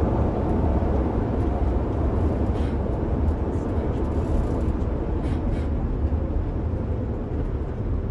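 Steady low engine and road rumble heard inside a moving tour coach.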